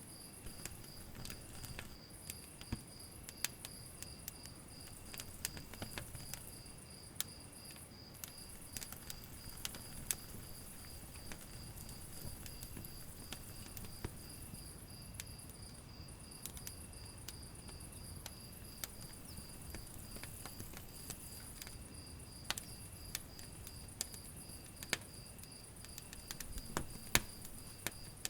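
Wood fire crackling, with sharp irregular pops scattered throughout. Under it runs a steady, evenly pulsed high chirping, like insects, with a higher chirring that comes and goes.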